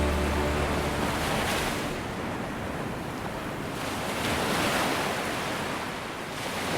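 Waves washing ashore: a surging hiss that swells and eases about three times.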